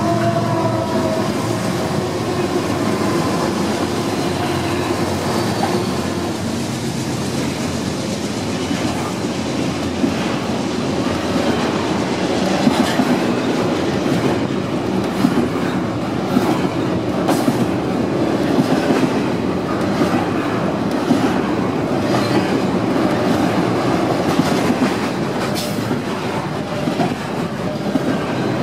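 Long freight train of double-stack container well cars rolling past close by: a steady rumble of steel wheels on rail, with scattered clicks as wheels cross rail joints. In the first few seconds the drone of the passing diesel locomotives fades away.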